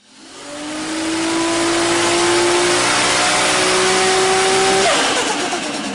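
A car engine accelerating hard under a loud rushing noise, fading in from silence. The pitch climbs slowly, steps once at a gear change about three seconds in, then drops sharply about five seconds in as it lifts off.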